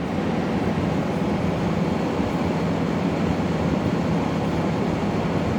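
LG window air conditioner running in fan mode: a steady blowing hum of the fan, without the compressor's faint aching noise. It comes up sharply at the very start and then holds even.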